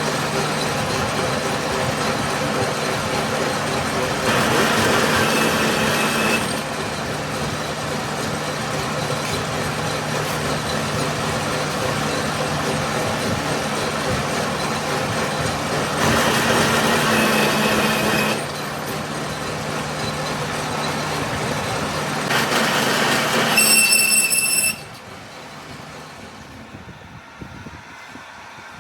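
A metalworking machine running with a steady hum. It gets louder three times, with a thin high squeal each time, then stops abruptly a few seconds before the end.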